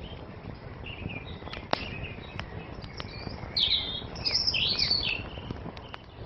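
Wood fire crackling with scattered sharp pops, while a songbird sings quick chirping phrases over it, loudest from about three and a half to five seconds in.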